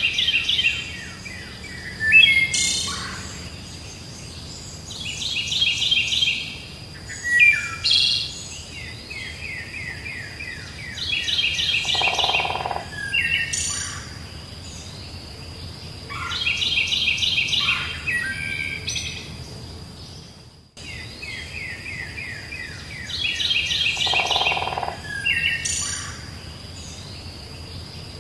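Birds singing and chirping in repeated trilled phrases that recur every few seconds, over a faint steady high tone. The sound drops out briefly about two-thirds of the way through.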